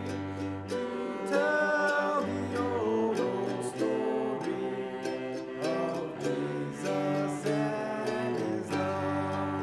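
A hymn sung with acoustic guitar and other plucked-string accompaniment, over steady bass notes.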